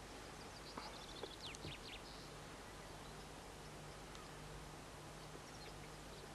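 Quiet outdoor evening ambience under a steady hiss and faint low hum, with a quick run of short, high bird chirps in the first two seconds and a couple of soft clicks.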